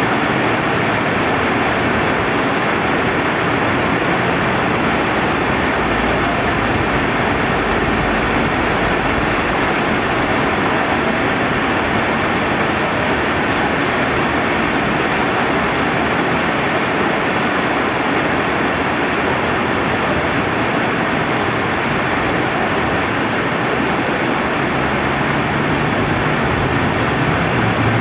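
Steady rain with a river flowing, an even, unbroken hiss.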